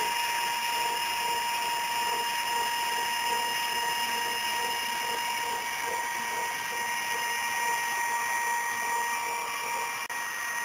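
CNC router running with a steady high-pitched, drill-like whine made of several held tones over a hiss.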